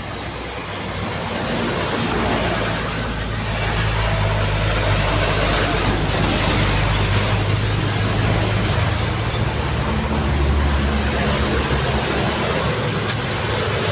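Heavy diesel truck engine running under load on a steep climb, with tyre and road noise. It grows louder over the first two seconds, then holds steady, and its low engine note strengthens about ten seconds in.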